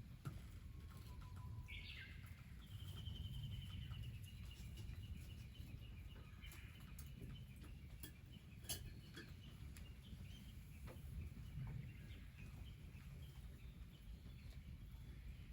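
Faint bird calls outdoors: a short rising call about two seconds in, then a long, even trill lasting several seconds. A few sharp clicks and a steady low rumble run underneath.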